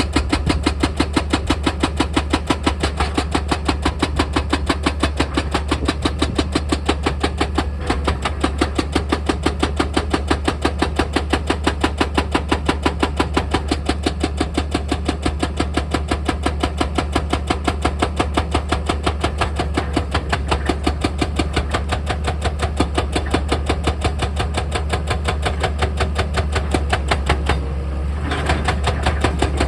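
Heavy machine drilling rock: a rapid, even hammering over a steady low hum, with a brief break in the rhythm a little before the end.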